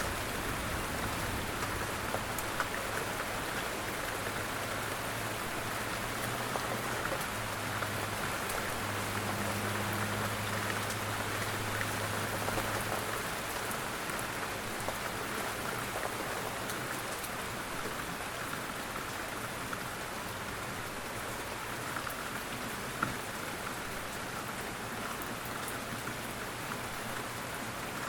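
Steady rain: an even hiss with scattered drop ticks, and a low steady rumble underneath that swells a little about a third of the way in.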